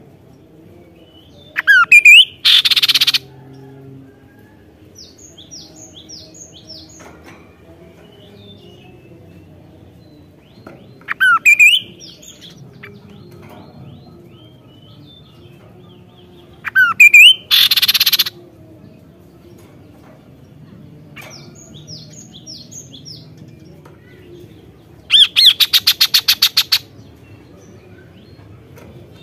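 Kaso-kaso bird singing in loud phrases several seconds apart, each a few rising whistles followed by a harsh rasp about a second long. The last phrase is a fast rattle, and softer high chirps come between the phrases.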